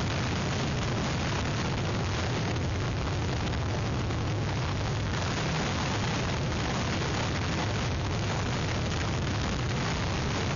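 Hurricane wind blowing steadily into the outdoor webcam's microphone: a continuous rushing noise with a heavy low rumble from the wind striking the mic.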